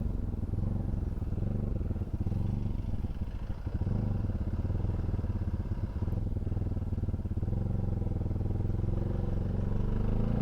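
Bajaj Pulsar NS200's single-cylinder engine running steadily at a constant low speed; the engine has been freshly rebuilt.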